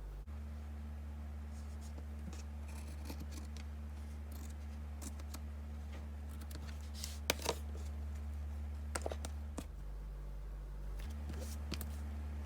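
Scissors cutting felt, a series of short snips and scrapes with the sharpest ones about two-thirds of the way through, over a steady low drone.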